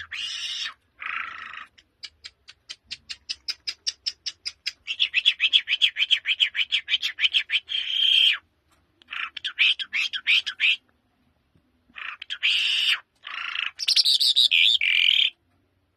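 A songbird singing in phrases. It starts with short notes, then a run of rapid repeated notes that speed up into a long warbling phrase, then several more warbled phrases with short pauses between them.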